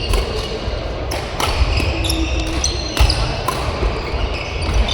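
Badminton rally in a hall: racket strings cracking against the shuttlecock several times, with short high squeaks of court shoes on the floor between the hits.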